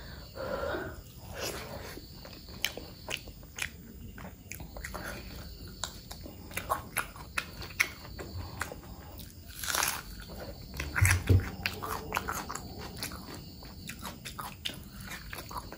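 Close-miked chewing and biting of mutton fat curry with rice eaten by hand: a string of mouth clicks and smacks at an uneven pace, with a louder cluster about two-thirds of the way through.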